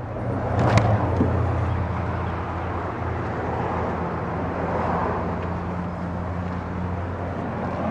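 A motor vehicle's engine hum with road-type noise, steady after building up in the first second, with a single sharp click about a second in.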